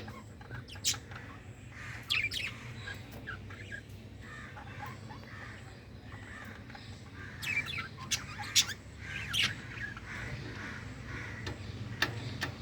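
Pet budgerigars chirping and squawking in short, sharp calls, busiest about two seconds in and again from about seven to nine and a half seconds in, over a steady low hum.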